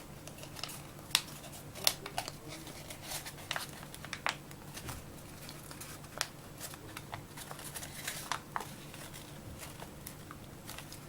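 A sheet of paper being handled and opened out into an origami boat: irregular crinkling with scattered sharp creasing clicks.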